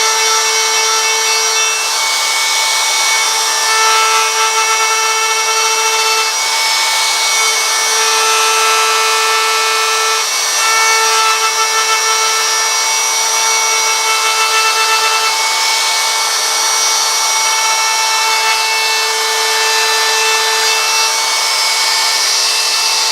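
Handheld wood router running steadily with a high motor whine while carving lettering into a wooden sign.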